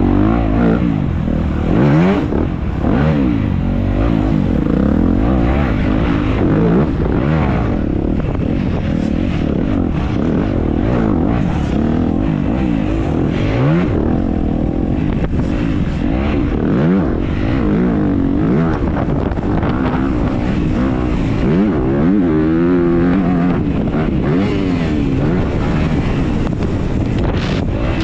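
Dirt bike engine heard from the bike's own on-board camera, revving hard and backing off over and over as it accelerates, shifts and brakes around the track, with wind and track noise underneath.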